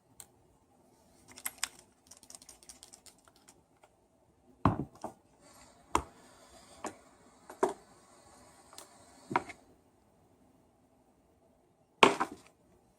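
Clicks and knocks of hands and tools working on a Bosch hammer drill during disassembly: light clicking in the first few seconds, then several sharp knocks over a light rattle, and one more loud knock near the end.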